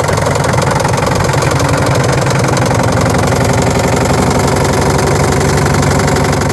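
Washing machine running with stones loaded in its drum, the stones banging against the drum and machine in a loud, rapid, continuous clatter.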